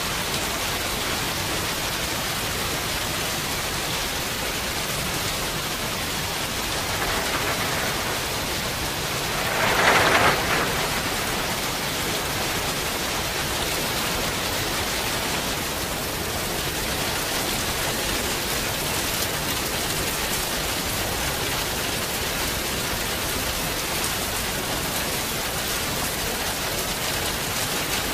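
Steady rain falling, an even dense hiss, with a brief louder swell about ten seconds in.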